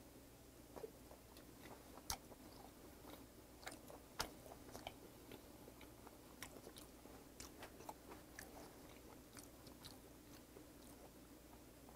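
Faint chewing of a mouthful of soy-sauce-marinated raw salmon, with soft wet mouth clicks scattered throughout.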